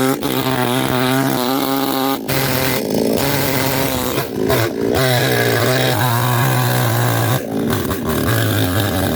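Chainsaw running and cutting through tree roots, its engine note wavering up and down, with brief dips about two, four and a half and seven and a half seconds in.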